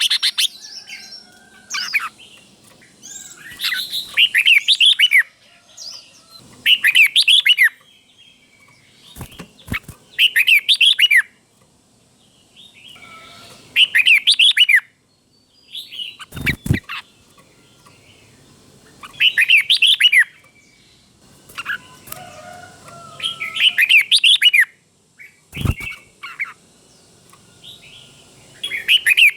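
Red-whiskered bulbul singing: short, rapid warbling phrases of up-and-down notes, repeated every few seconds. A few sharp knocks fall between the phrases.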